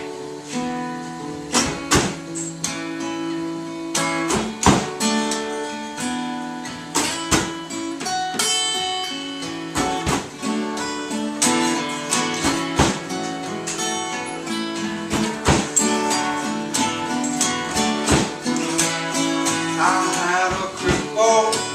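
Guitar-led band music: the instrumental introduction of a song, with strummed chords in a regular rhythm. A singing voice begins to come in near the end.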